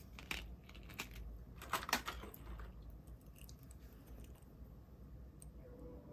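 Packaging crinkling as merchandise is handled and unboxed: a few short crinkles, then a louder burst of crinkling about two seconds in.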